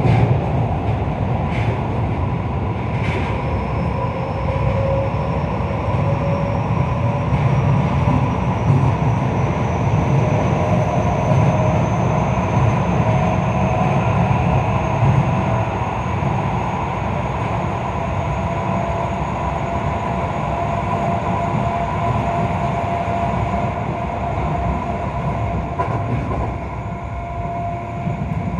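Keio 5000 series commuter train running, heard from inside the passenger car: a steady rumble of wheels on rail with a faint whine that slowly rises in pitch, and a few light ticks in the first few seconds.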